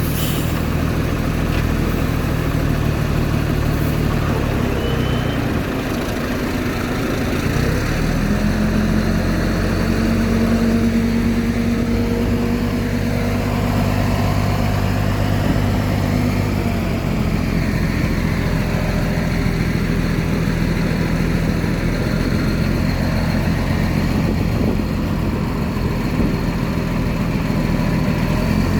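Heavy diesel engine of earthmoving machinery running steadily. Its note steps up about eight seconds in and shifts to another steady note about halfway through.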